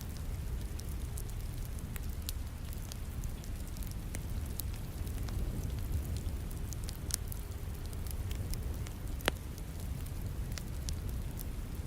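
Wood fire crackling with scattered sharp pops, the loudest about nine seconds in, over the steady hiss and low rumble of falling rain.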